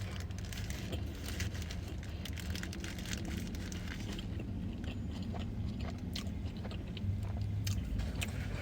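A person chewing and biting food close to the microphone: a quick run of small crunching clicks over a steady low hum.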